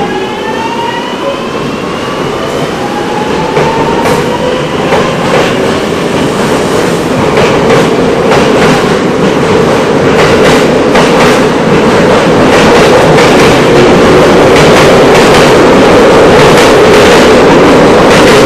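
JR Yokosuka Line E217-series electric train pulling out past the platform. The traction motors give a rising whine that fades about three seconds in. Then the wheel and rail noise grows louder and louder as it gathers speed, with rapid clicks over the rail joints.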